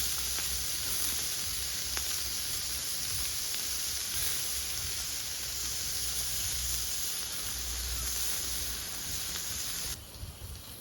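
Small B6-size Captain Stag KaMaDo fire pit in use: a steady sizzling hiss with a few faint crackles. The sound drops away near the end.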